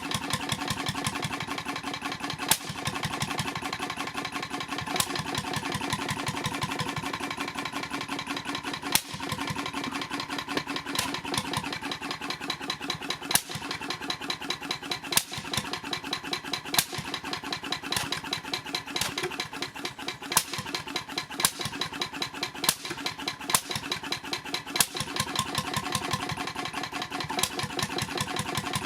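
H V McKay Sunshine 10 hp type C portable engine running steadily with a fast, even beat. A sharp, loud report cuts through every one to two and a half seconds, at uneven spacing.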